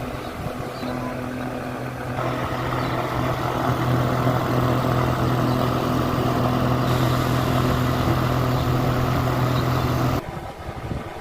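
A small electric fan motor running with a steady hum and rush of air, which cuts off suddenly near the end.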